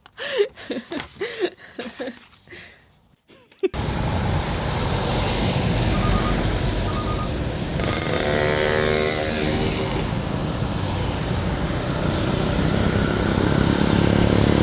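A few seconds of short, scattered pitched sounds give way abruptly to steady roadside traffic noise. Around 8–10 s a truck engine passes, and three short high beeps come just before it. The low rumble of another approaching vehicle builds toward the end.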